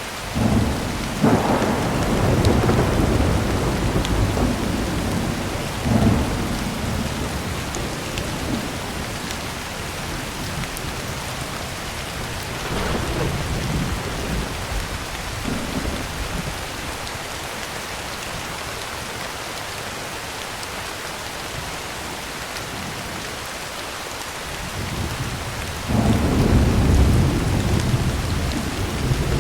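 Heavy rain drumming steadily on a tin roof, with rolls of thunder rumbling over it: one starts about half a second in, weaker ones follow, and a long loud rumble comes near the end.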